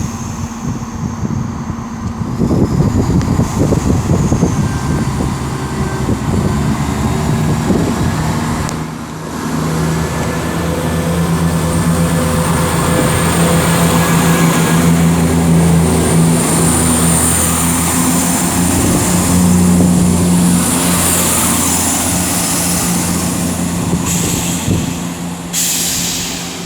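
A train running close past the platform: loud rail and wheel noise with a steady low hum. It builds up about two seconds in and stays loud until near the end.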